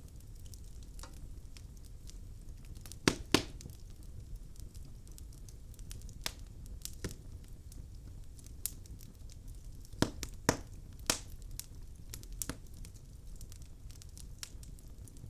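Wood fire burning in a fireplace: a steady low rumble with irregular sharp pops and crackles from the logs, the loudest a close pair about three seconds in and a cluster about ten seconds in.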